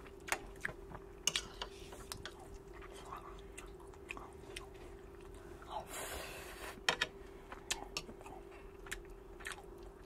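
Close-up chewing of soft cooked salmon larb and rice, with scattered light clicks of a metal spoon and the mouth as spoonfuls are taken.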